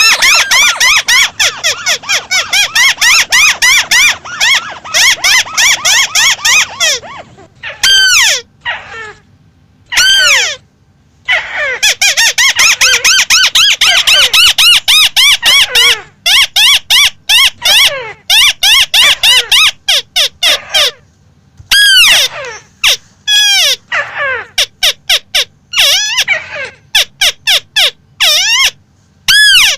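Crake (burung tikusan) calling: fast runs of sharp, down-slurred notes, several a second, broken by short pauses in which a few longer single downslurred notes stand alone.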